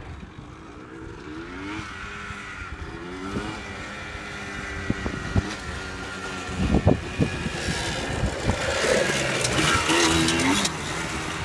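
Yamaha Blaster ATV's 195 cc two-stroke single engine running while the quad is ridden, its pitch rising and falling with the throttle and growing louder toward the end. Wind buffets the microphone with a few low thumps.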